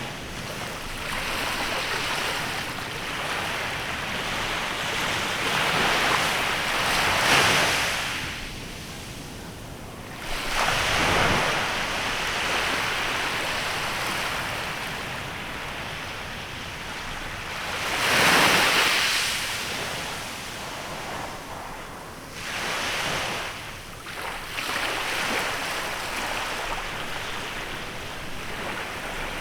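Small waves washing onto a beach, a steady hiss of surf that swells into louder breaks every few seconds, strongest about 7 and 18 seconds in, with some wind on the microphone.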